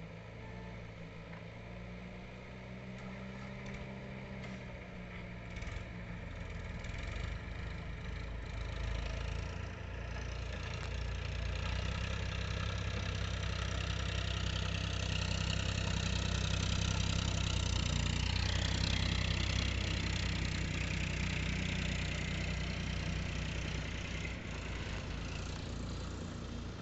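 Diesel engine of a heavy vehicle running steadily, growing louder from about ten seconds in to a peak about two-thirds of the way through, then easing off.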